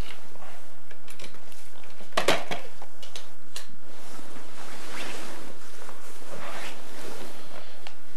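Household clatter: scattered clicks and knocks of things being handled, with the loudest clatter about two seconds in.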